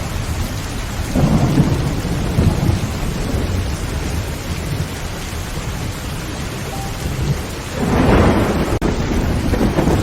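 Heavy rain falling steadily on a tin roof, with a roll of thunder about a second in and a louder one near the end.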